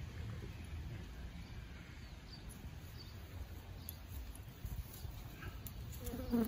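Faint rustling and small ticks of plastic bird netting being handled and cut, over a low steady rumble, with a brief louder sound near the end.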